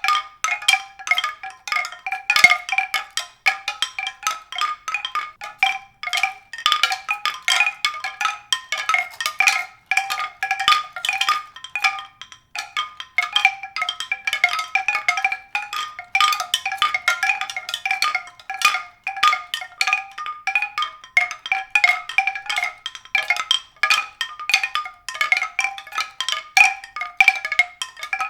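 Tuned percussion struck many times a second in an irregular pattern, each note ringing briefly at one of a small set of fixed pitches.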